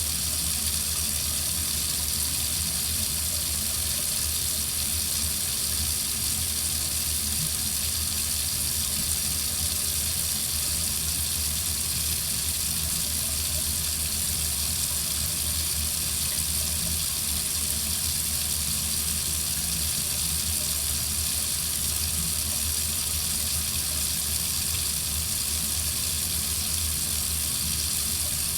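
Water faucet running steadily into a sink, an even, unchanging hiss of flowing water.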